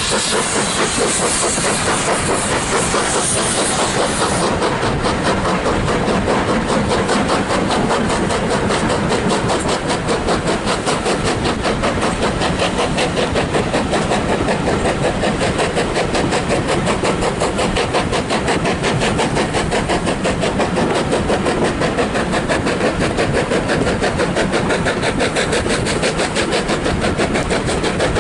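LMS Black Five steam locomotive 45212 and its train running, a loud steady noise with a steam hiss that drops away about four seconds in.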